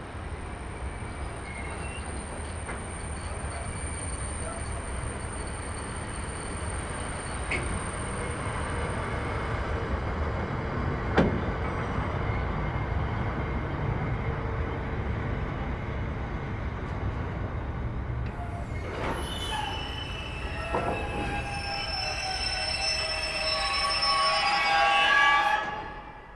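A train running through with a steady low rumble and a single sharp click partway through. Late on, several high steady tones build up and then cut off suddenly shortly before the end.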